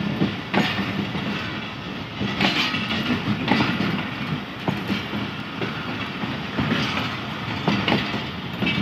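Rake of passenger coaches rolling past on the track, a steady rumble broken by sharp wheel clacks over rail joints, recurring roughly once a second.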